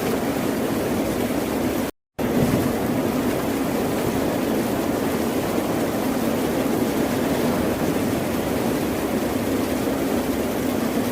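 Ocean surf: a steady, continuous rush of waves with no distinct breakers standing out. About two seconds in, the sound drops out to silence for a fraction of a second and then resumes.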